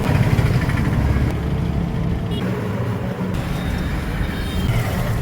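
Steady low rumble of a road vehicle running, with road traffic noise.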